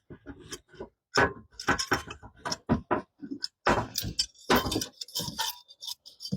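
Irregular metallic clinks and clicks of hand tools, sockets and parts being handled during spark plug work, with no steady rhythm.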